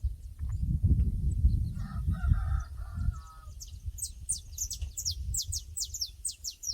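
A rooster crows once, faintly, about two seconds in, over a low rumble. From about four seconds a songbird sings a fast run of high, downward-sweeping chirps.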